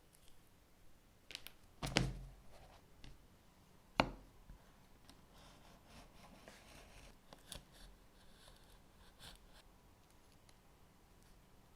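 Small objects being handled on a workbench: two sharp knocks about two and four seconds in, the first with a dull thud, then light rustling and scattered small clicks.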